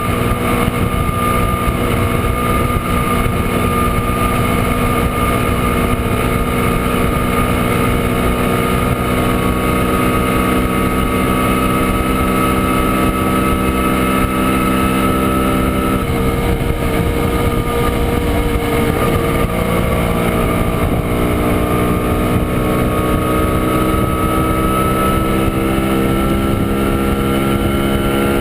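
Montesa Impala Comando 175 cc two-stroke single-cylinder engine running at a steady cruise, heard from on board. About halfway through the note drops briefly, as with a gear change or the throttle eased, then climbs again and rises slowly toward the end.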